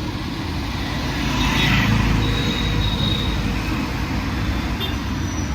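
Road traffic on a busy city street: a steady rumble of passing vehicles, with a thin high squeal about two seconds in that lasts around a second.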